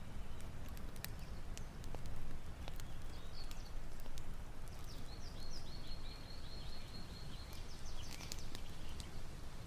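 Outdoor ambience: a steady low rumble with scattered sharp clicks, and a small bird giving a quick high trill of about ten notes about halfway through.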